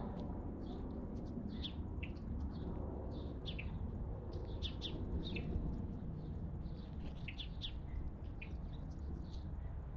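Wild songbirds chirping, with many short, quick calls, several a second, some sliding downward in pitch. A steady low background rumble runs underneath.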